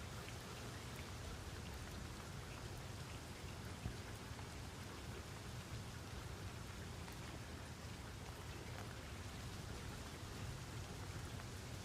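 Steady rain falling, with scattered drops ticking against a surface.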